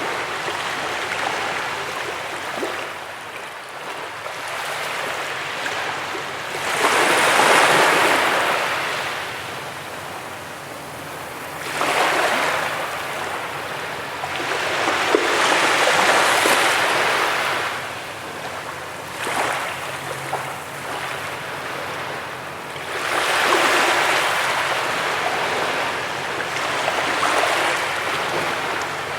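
Ocean surf breaking on a beach: a steady wash of water that swells up as each wave breaks and falls away as it recedes, with a new surge every four to five seconds.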